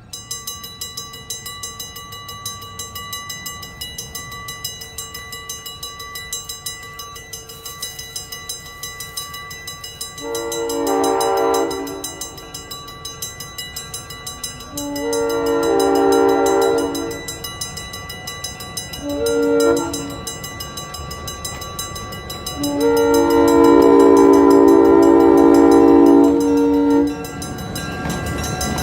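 Western Railroad Supply mechanical grade-crossing bell ringing steadily, about three to four strikes a second. From about ten seconds in, a locomotive horn sounds the grade-crossing signal: long, long, short, long, the last blast the loudest. Near the end the low rumble of the arriving train comes in.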